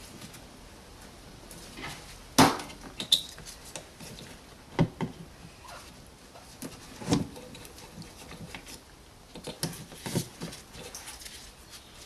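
Scattered sharp plastic clicks and knocks from hands working at the electrical connectors on the screen wash pump motors of the washer tank, unplugging them; the loudest click comes about two seconds in.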